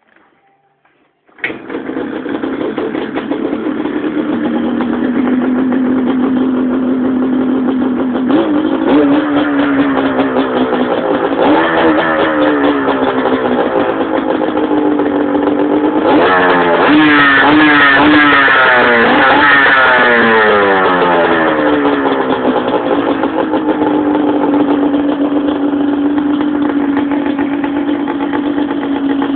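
1989 Yamaha Banshee's two-stroke twin engine starting from cold, catching suddenly about a second and a half in and settling to an idle. It is then blipped a few times and revved up and down for several seconds before dropping back to a steady idle.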